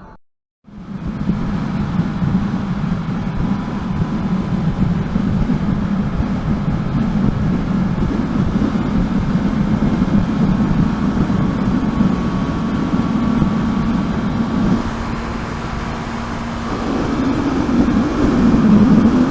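Steady road and engine noise of a car driving, picked up by a dashcam, after a brief silence at the start; it grows louder near the end.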